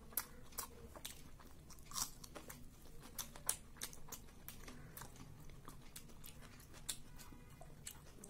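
A person chewing a mouthful of rice with chicken curry and potato, lips closed. The chewing is quiet, with many sharp, irregular wet clicks.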